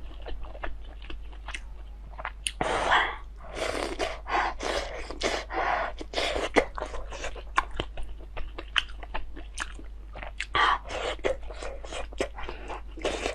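A person chewing food, a quick run of wet mouth clicks and smacks broken by longer noisy stretches of eating sound.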